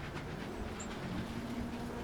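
Low steady rumble of a distant engine with a faint hum, and one short high bird chirp a little under a second in.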